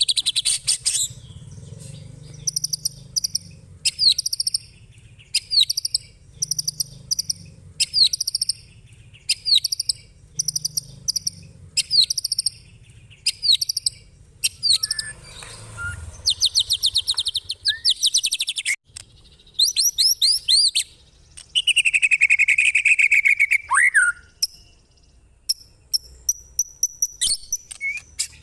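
Songbird singing in short, rapid chattering bursts about every second or two, with longer fast rattling runs ('ngekek') and a long falling whistle a little past the middle.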